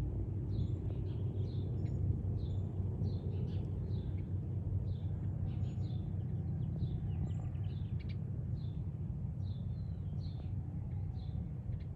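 Small bird chirping repeatedly, short high chirps about twice a second, over a steady low rumble.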